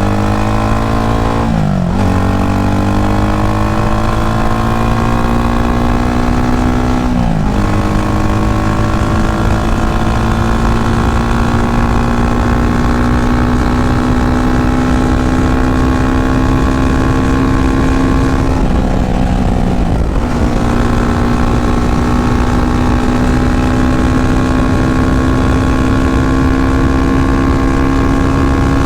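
Yamaha FZ25's single-cylinder engine pulling away through the gears. Its pitch climbs and drops sharply at upshifts about two and seven seconds in, then holds nearly steady at cruising speed, with a brief dip and recovery around twenty seconds in.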